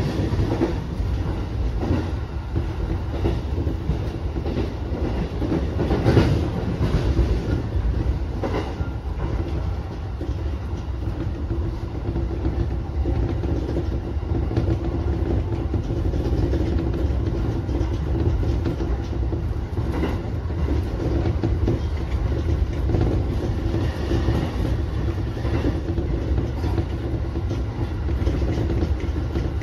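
JR Kawagoe Line electric commuter train running, heard from inside the driver's cab: a steady rumble of wheels on rail under a constant hum, with scattered clacks as the wheels pass rail joints and points, the loudest about six and eight and a half seconds in.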